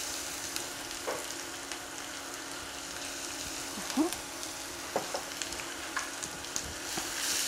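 Sliced onion and minced garlic sizzling in hot oil in a stainless steel pan: a steady frying hiss that grows louder near the end.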